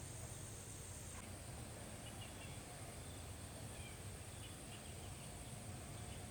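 Insects droning in a steady, high, even tone, with a few short bird chirps and a low rumble underneath.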